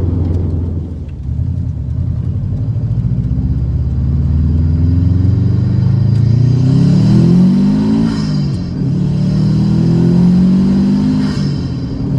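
Turbocharged 2.5-litre flat-four of a 2007 Subaru STI accelerating hard, its revs climbing through the gears with a brief drop in pitch at each of two upshifts.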